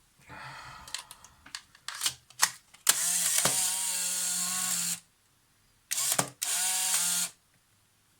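Polaroid instant camera firing: a few shutter clicks, then the film-drive motor and gear train whirring for about two seconds. After a pause the motor whirs again for about a second and a half, broken by a brief gap. It is running on an almost dead, empty film pack.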